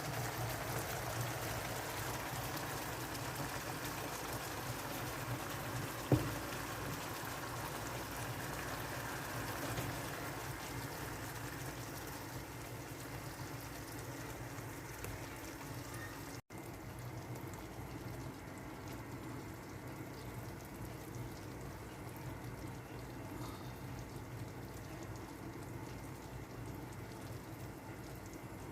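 Chicken wings stewing in black pepper sauce in a pan, a steady bubbling and sizzling. One short sharp click about six seconds in.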